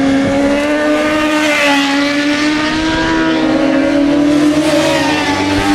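Racing superbike engine at high revs, a loud, steady high note that bends only slightly in pitch over several seconds.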